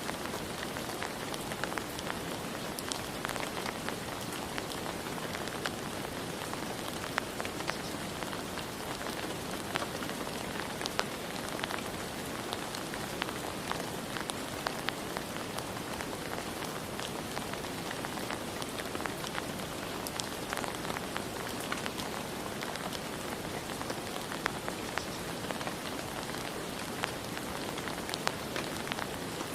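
Steady rain falling, an even hiss with many individual drops ticking and pattering on surfaces.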